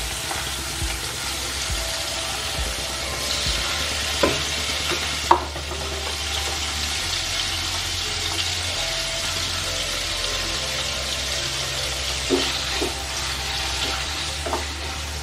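Boneless chicken pieces sizzling in shallow hot oil in a nonstick kadai, a steady frying hiss broken by a few sharp clicks. A wooden spatula stirs the pieces near the end.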